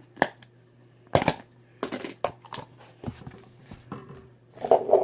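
Slime being squished and worked by hand in a bowl: a run of short, irregular crackling squelches, with a louder, longer squish near the end.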